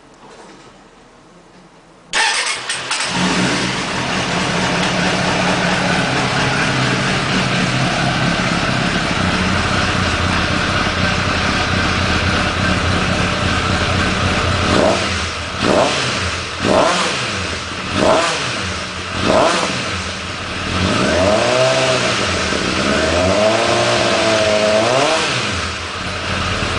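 Suzuki Bandit 600's inline-four engine, breathing through a BOS aftermarket exhaust with its dB-eater baffle fitted, starts about two seconds in and settles to a steady idle. It then takes five quick throttle blips, followed near the end by a run of longer revs that rise and fall in pitch.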